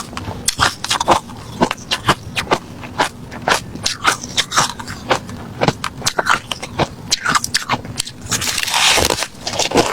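Someone chewing refrozen crushed ice: a rapid, irregular series of sharp, crisp crunches, with a longer grinding crunch near the end.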